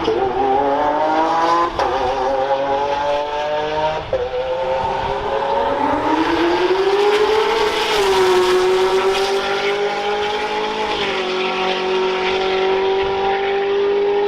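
Dirt bike engines at full throttle on a drag run. The pitch climbs, drops abruptly at gear changes about two and four seconds in, climbs again, then holds a steady high note.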